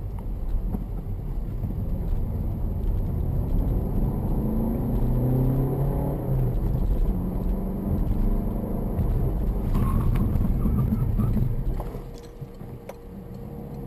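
Car engine and road noise from inside a moving car, the engine note rising and shifting as it accelerates, then easing off about twelve seconds in.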